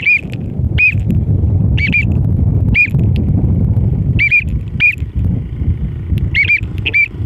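A bird's short arched chirps, repeated about once a second and sometimes given in quick pairs, over a loud steady low rumble.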